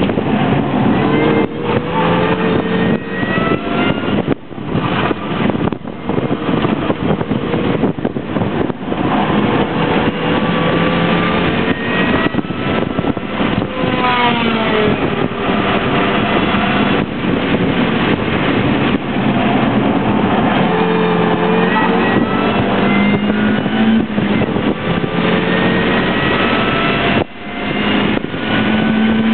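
A MINI Cooper's four-cylinder engine, heard from inside the cabin, pulling hard through the gears: its pitch climbs again and again and drops back at each shift or lift, over steady road and wind noise. The engine note briefly falls away a couple of seconds before the end.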